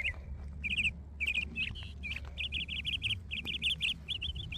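Small songbird chirping: quick runs of short, high chirps, thickening into rapid series in the second half, over a low steady rumble.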